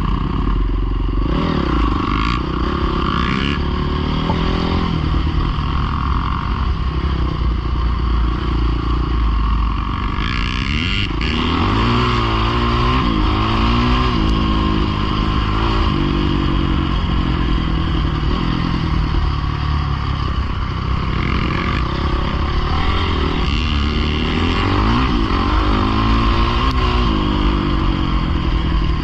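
Dirt bike engines running and revving up and down, several at different pitches at once, rising and falling throughout.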